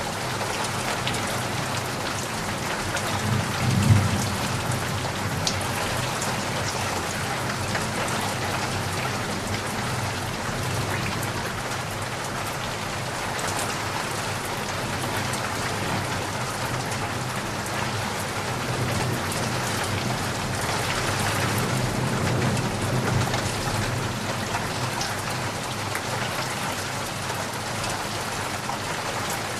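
Steady rain pattering on a surface, with a low rumble swelling briefly about four seconds in and again past the twenty-second mark.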